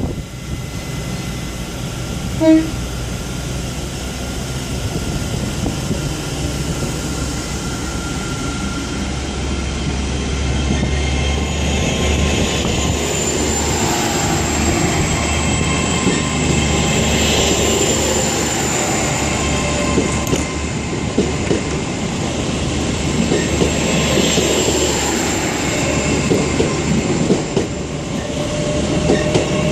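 Class 800 IET bi-mode train pulling out of the station on its underfloor diesel engines, with a low rumble, a rising whine and wheels clicking over the rail joints. A single short knock about two and a half seconds in.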